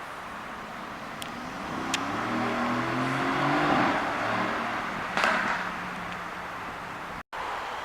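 A supercar accelerating past, its engine note building to a peak about four seconds in and then fading away, with a few sharp clicks along the way.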